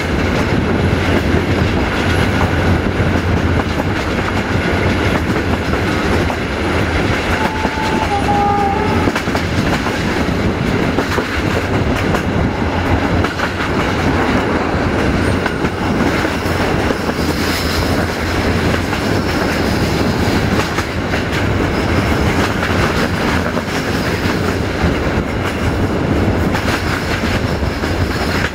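Passenger train running along the track, heard from on board: a steady rumble and rattle of the wheels on the rails, with a brief high tone about eight seconds in.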